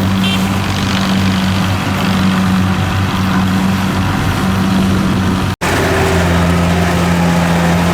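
Kubota DC70 rice combine harvester's diesel engine running in a steady drone. About five and a half seconds in the sound cuts out for an instant, then the drone resumes at a slightly different pitch.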